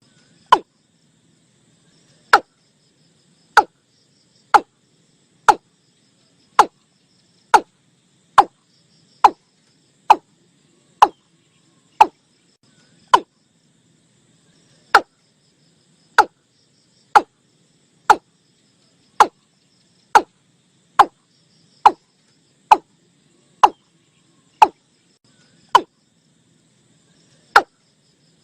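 Male watercock calling: a long series of short, hollow notes, each dropping quickly in pitch, about one a second with a few brief pauses. This is a recorded lure call, with a faint insect and frog chorus behind it.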